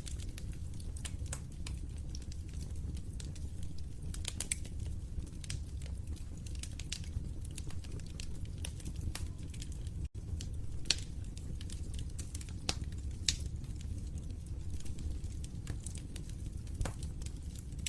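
Wood fire crackling, with sharp pops scattered irregularly over a low steady rumble of the flames. A few pops stand out louder, and the sound cuts out for an instant about ten seconds in.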